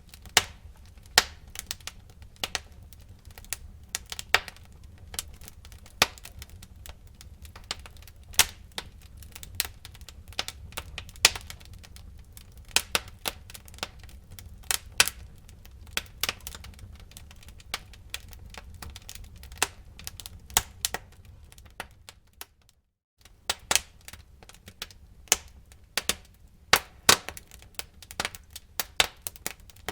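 Wood fire burning in a fireplace, crackling with many irregular sharp pops over a soft low rumble. The sound drops out completely for a moment about three-quarters of the way through, then the crackling carries on.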